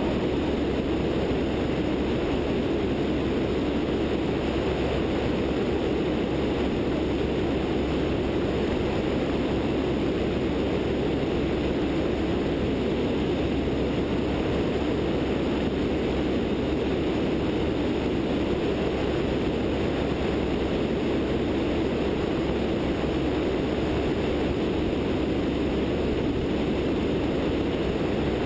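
Steady drone of a light sport airplane's 100-hp Continental O-200 engine and propeller in flight, mixed with wind rush over a wingtip-mounted camera.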